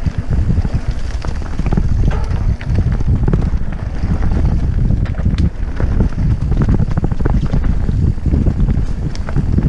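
Wind buffeting the microphone over the rumble of a mountain bike riding fast down a rough, rocky trail, with frequent rattling clicks and knocks from the bike over the rocks.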